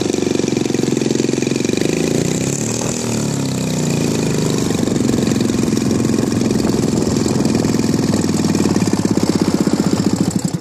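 DLA 112cc two-stroke gasoline engine of a large radio-controlled Cessna 182 model running steadily with its propeller spinning.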